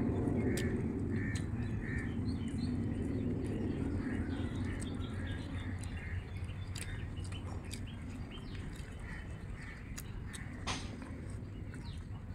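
Birds calling outdoors: a run of short, repeated calls over a low steady background, with scattered small clicks and one sharp tap near the end.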